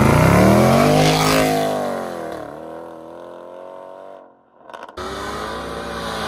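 2011 Jaguar XFR's supercharged V8, through a straight-piped aftermarket exhaust, accelerating hard. It is loudest in the first second or so as the note climbs, then the note falls and fades, dipping sharply about two and a half seconds in. After a brief gap near the end, the engine is heard again, quieter.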